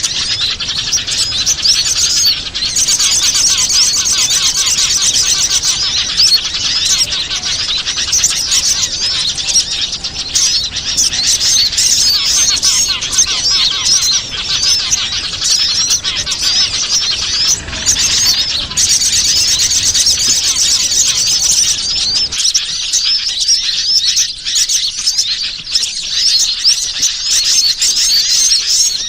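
Dense, continuous chirping and twittering of many small wild birds at once, a bird-luring recording used to call small birds in. The fast, high chirps run without a break, with a quieter low background from about two-thirds of the way through.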